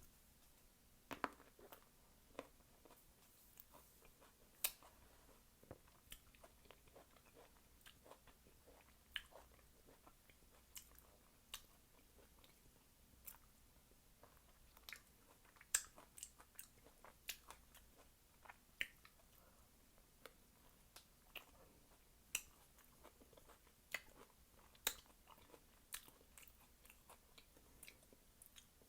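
A person chewing fresh fruit topped with whipped cream close to the microphone: quiet, irregular wet mouth clicks and smacks.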